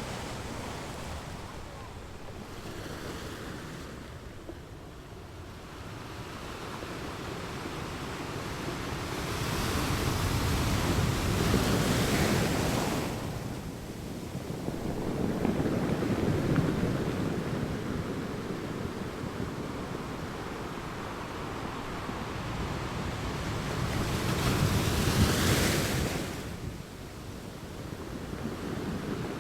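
Ocean waves breaking on a beach, the surf swelling and ebbing, with three louder surges: about ten to thirteen, fifteen to seventeen, and twenty-four to twenty-six seconds in.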